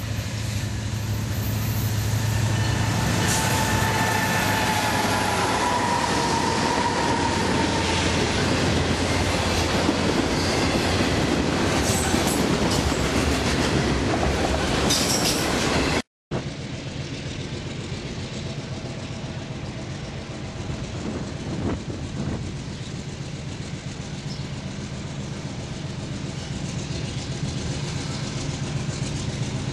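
Freight train rolling past behind diesel locomotives, a steady loud rumble of engines and wheels on rail. About halfway through the sound cuts off abruptly and resumes more quietly as the train keeps passing.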